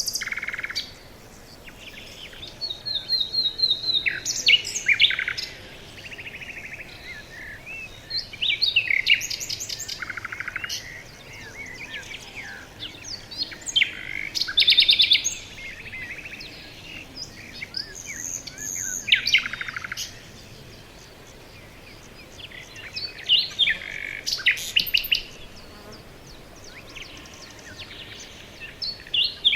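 Several songbirds singing in a forest: bursts of rapid chirps and trills come every few seconds.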